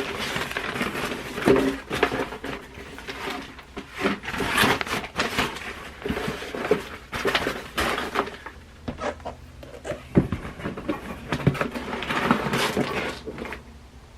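Makeup packaging being handled: rustling of cardboard and plastic with many small clicks and knocks as boxes and products are moved and opened.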